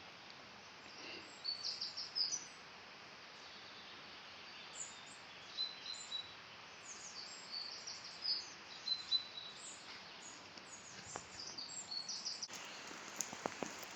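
Steady rush of a waterfall with small birds chirping over it again and again. A few sharp clicks come near the end.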